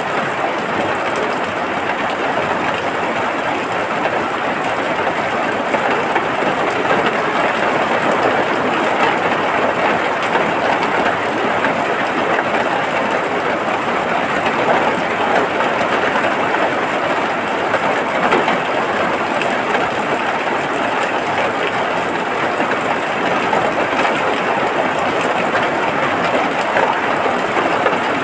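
Steady rain, a dense even hiss that does not let up.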